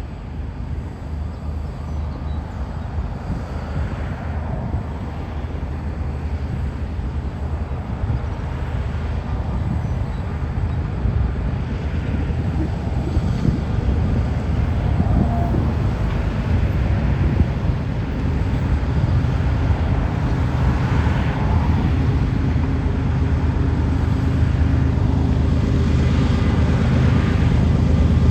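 A GE ES44AC diesel-electric locomotive hauling a freight train, its low engine drone growing steadily louder as it approaches.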